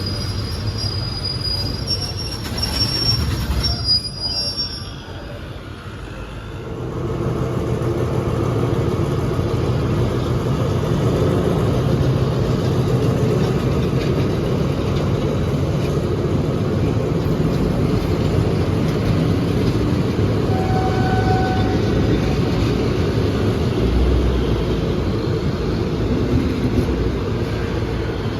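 Steel train wheels squealing on the rails in high steady tones for the first few seconds, then a diesel train's engines and wheels making a loud steady rumble from about seven seconds on as the train runs past.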